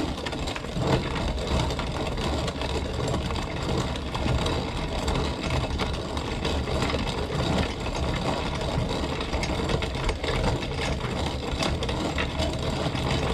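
Antique hand-cranked corn grinder turning steadily, crunching and cracking whole dried corn into cracked corn as the wheel is cranked.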